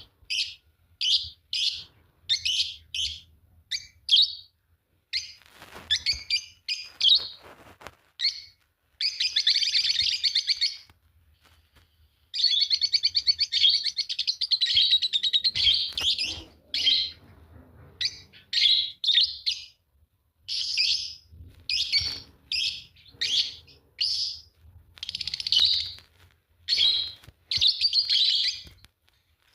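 A pair of Fischer's lovebirds chirping. They give short high calls about twice a second, with longer runs of rapid chattering around a third and half of the way through, then go back to separate chirps.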